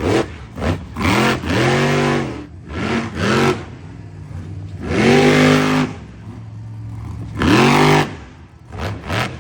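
Monster truck's supercharged V8 engine revving hard in repeated throttle bursts, each rising and falling in pitch, with quieter lulls between them, about five blasts in all.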